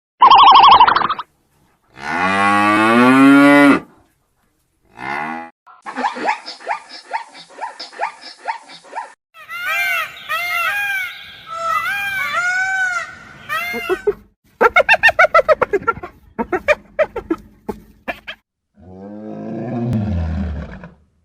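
A string of different animal calls cut one after another, among them a cow mooing. There are quick repeated chirps and squeaks in the middle, and near the end a low moo that falls in pitch.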